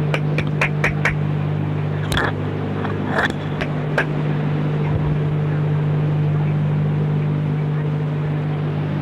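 A steady low hum with several even tones, like a small motor or electrical hum. A quick run of sharp clicks, about four a second, fills the first second, and two brief louder noises come about two and three seconds in.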